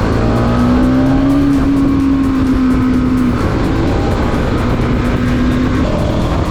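Bajaj Pulsar NS200's single-cylinder engine running at steady revs under way, its note rising slightly and then holding. The note fades about three seconds in and returns more faintly before the end, over a steady rushing noise.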